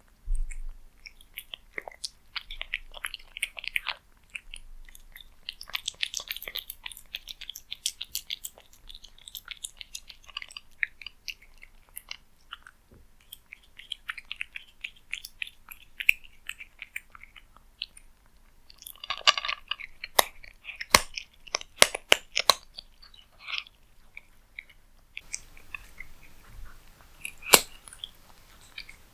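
A cat chewing and crunching cat food close to the microphone: irregular runs of crisp clicks and smacks, with one sharper crunch near the end.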